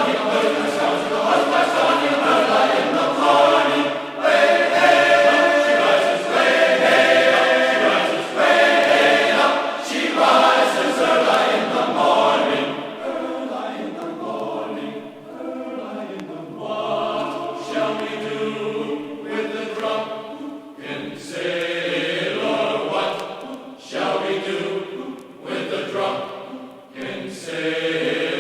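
A choir singing a sea shanty as background music.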